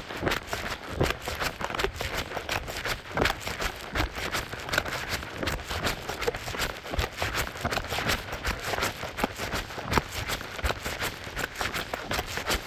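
Running footsteps: a quick, uneven patter of steps, roughly three a second, with knocks and rustle from a camera carried by the runner.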